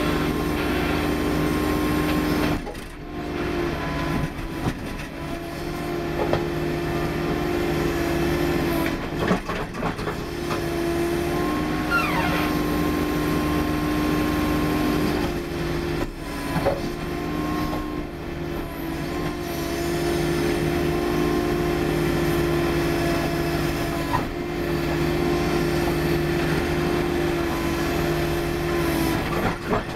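Case 440 skid steer running hard while its hydraulic hammer breaks up asphalt: a steady engine and hydraulic drone with a held tone, dropping away briefly about five times as the hammer stops and restarts.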